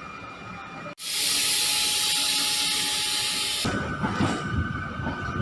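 MEMU electric train: a loud steady hiss for about three seconds that stops abruptly, followed by the rumble of the train running with a steady high tone.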